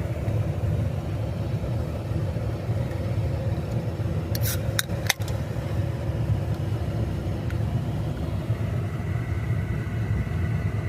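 Steady low rumble of an idling car engine. About four and a half seconds in, a few sharp clicks and a crack from the tab of a Monster Energy can being popped open.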